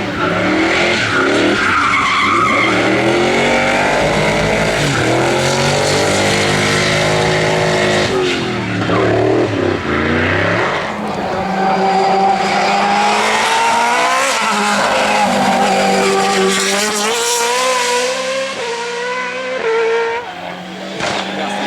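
Hillclimb race car engine driven hard, its pitch climbing and dropping again and again as it revs through the gears and lifts off for bends. The engine note sinks low about nine seconds in before climbing again.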